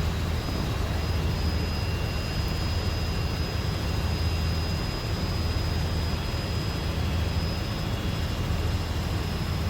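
Steady engine and rotor drone of a tour helicopter in flight, heard from inside the cabin, with a faint steady high whine over it.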